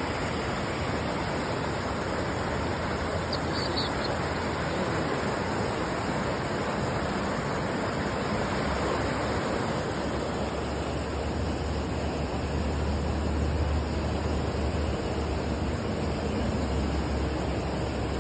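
Heavy rain pouring down in a steady hiss. A low rumble joins about halfway through.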